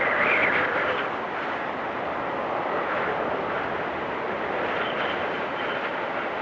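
Blizzard wind blowing steadily, gusting up in the first second and then holding at an even rush, with a faint high whistle near the end.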